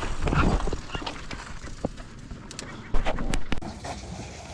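Mountain bike rattling and clattering over rough rocky trail, with scattered knocks and one hard impact about three seconds in. Near the end it gives way to a steady, even rush of wind.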